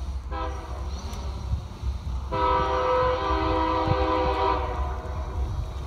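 Norfolk Southern locomotive air horn sounding two blasts, a shorter one that fades and then a louder one held about two seconds, each a chord of several notes, over a steady low rumble.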